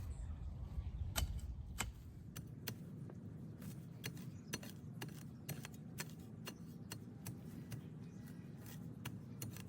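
Garden digging: irregular sharp clicks and taps of a shovel working into soil, about one or two a second, over a low steady background hum.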